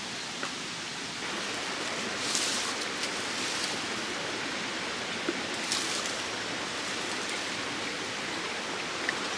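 Mountain stream water flowing steadily, with two brief louder swishes, one about two seconds in and one near six seconds.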